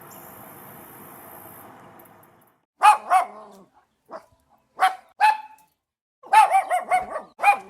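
A small dog yapping in short, high-pitched barks: a pair about three seconds in, another pair around five seconds, then a quick run of several near the end. A steady background hiss fades out before the barking starts.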